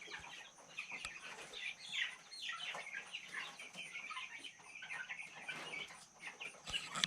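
A flock of young, nearly fully feathered chickens peeping and clucking, with many short, high calls overlapping, many of them falling in pitch.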